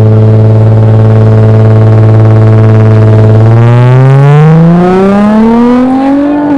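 Loud car engine held at a steady drone, then revving up, its pitch climbing smoothly over about three seconds before dipping briefly near the end.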